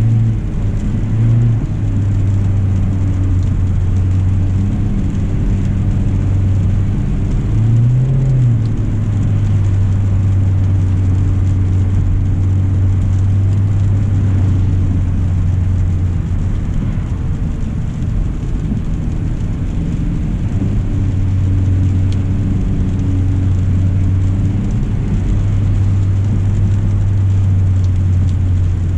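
2025 Hyundai Elantra SEL driving: a steady low drone of engine and road noise, with a brief rise and fall in pitch about eight seconds in.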